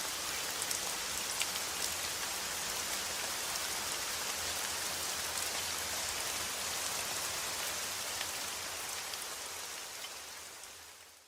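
Steady rain falling, with scattered sharper drop ticks over the hiss. It fades out near the end.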